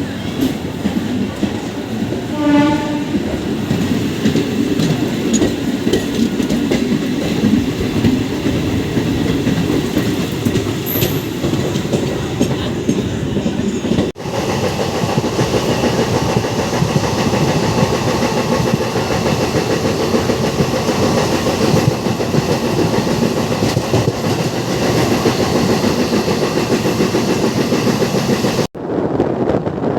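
An electric MEMU train running along the line, with a short train horn blast about two and a half seconds in. The running noise is steady and drops out briefly twice.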